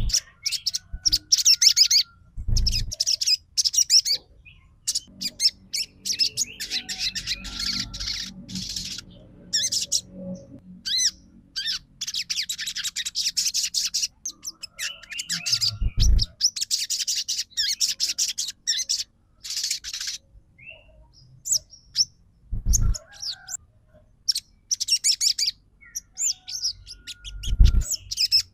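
Sogon (sunbird) singing a rapid, high twittering song in bursts, fast strings of sharp chirps broken by short pauses, the quick-fire 'trotol' style used as a lure to set other birds singing. A few dull thumps come through now and then.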